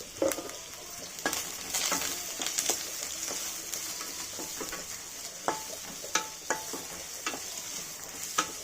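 Sliced onions and curry leaves sizzling in hot oil in a kadai, with a steady hiss and frequent sharp clicks and scrapes of a spatula against the pan as they are stirred.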